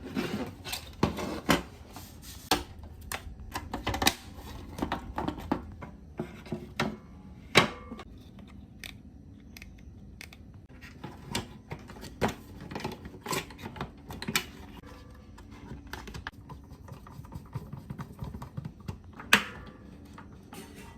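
Irregular sharp clicks, taps and knocks of hand work on small parts, at times several a second, over a low hum of room tone. A few louder knocks stand out, one near the end.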